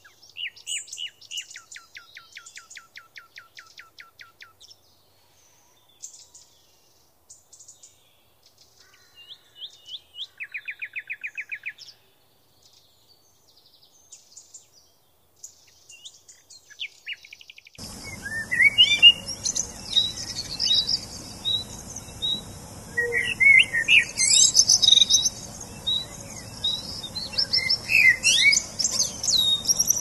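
Small birds singing: a rapid trill of repeated notes near the start and a shorter, faster one about ten seconds in, with scattered chirps between. From about eighteen seconds a busier chorus of chirps and calls sets in over a steady outdoor hiss.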